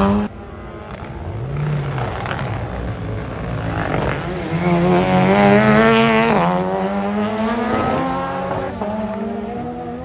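Rally car engine accelerating hard, its pitch climbing and falling back sharply at each gear change, loudest about halfway through and fading near the end. It starts with an abrupt cut from a louder sound.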